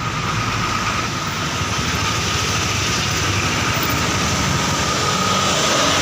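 Truck engine running under a steady wash of road noise, with a thin, steady high whine over it.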